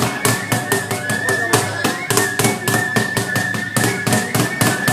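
Festival percussion for a shrine procession: rapid, even strikes, about five or six a second, over a steady high tone.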